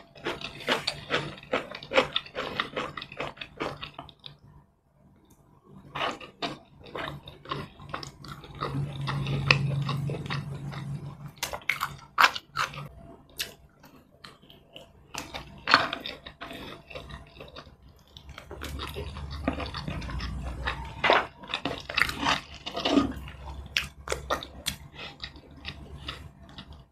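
Close-miked chewing of air-fried grilled chicken eaten by hand: wet mouth clicks and lip smacks in quick runs, with a short pause about five seconds in.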